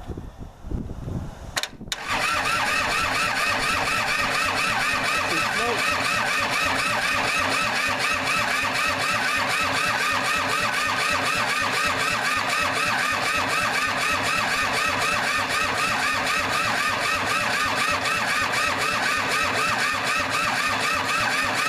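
Kubota L2500 diesel tractor engine being cranked over by its starter for nearly twenty seconds, with an even, fast rhythm. It is a cold crank without the glow plugs heated, and the engine does not catch.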